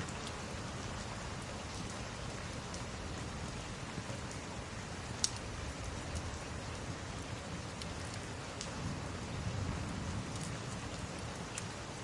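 Steady rain pattering, mixed with the scattered sharp crackles and pops of a log fire, one louder pop about five seconds in.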